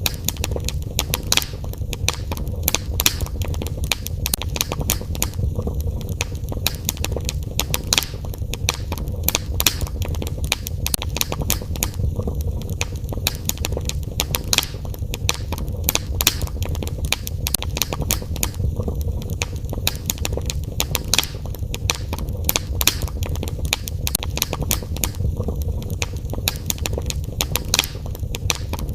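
Wood fire crackling in a fireplace: frequent sharp, irregular pops and snaps over a steady low sound of burning.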